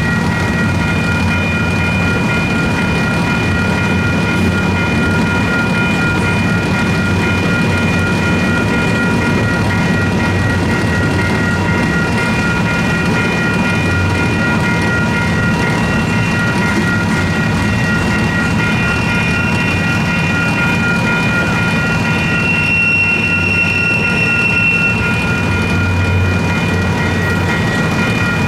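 Union Pacific double-stack intermodal freight train rolling past with a steady low rumble and wheels clacking over the rail joints. The crossing's WCH Type 4 electronic bell rings steadily over it.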